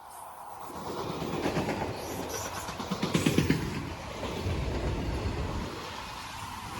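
A train rolling past, its sound building from about a second in, with wheels clacking over rail joints; a run of sharp clicks comes about three seconds in.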